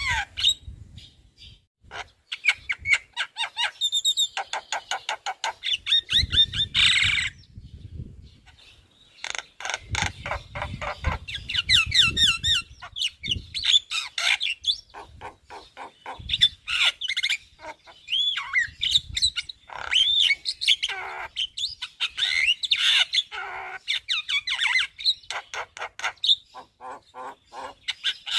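Javan myna singing a long, rapid, varied song of clicks, whistled glides and harsh chattering notes, running through its mimicked song fill-ins, with brief pauses.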